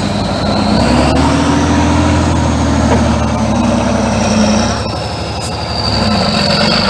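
Heavy truck's diesel engine revving up under load, holding, then easing back off, with a high whine rising and falling with it.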